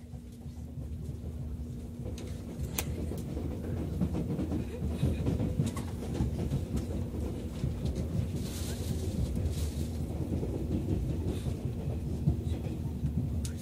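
Running noise inside a JNR 485 series limited express electric train car just after departure: a steady rumble with a constant hum and occasional sharp rail-joint clicks. It grows louder over the first few seconds as the train gathers speed.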